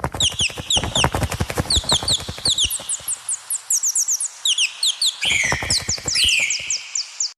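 Small birds chirping in quick, short, high falling notes, over a fast, irregular run of clicks and taps in the first few seconds. Two louder falling calls come about five and six seconds in.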